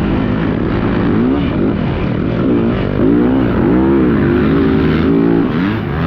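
Yamaha YZ450 single-cylinder four-stroke motocross engine being ridden hard, its revs rising and falling repeatedly through throttle and gear changes, over heavy rushing wind noise.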